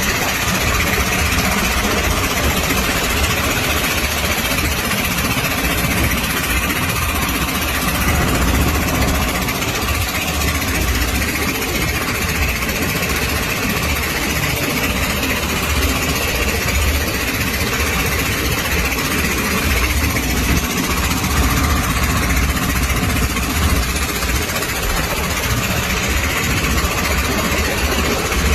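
Strong wind buffeting the microphone with an uneven low rumble, over a steady rush of wind and sea waves.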